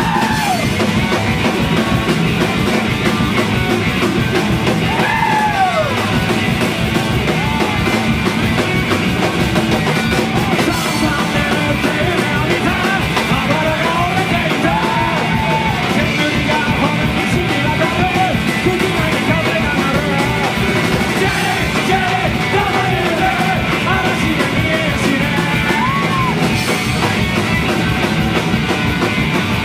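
Live punk-rock band playing loudly with a full drum kit, with yelling over a dense, instrumental-heavy passage.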